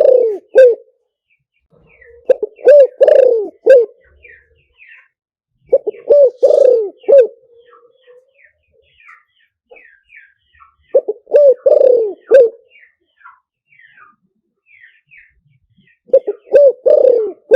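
Spotted dove cooing: short phrases of several coos repeated every four to five seconds, the kind of call used to lure wild doves to a decoy. Faint chirps of small birds sound between the phrases.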